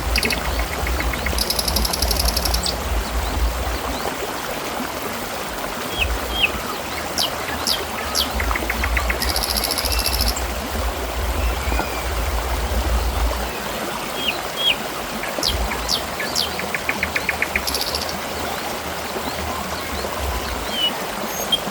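Water trickling and splashing steadily, with small birds chirping over it: short whistled notes and quick rattling trills every second or two.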